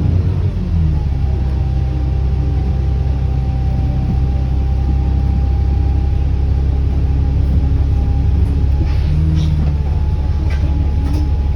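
ADL Enviro400 double-decker bus's diesel engine running under steady load with a steady high whine from its turbocharger over the low engine note. The engine eases off briefly about half a second in and pulls again a little past the middle, with a few light rattles near the end.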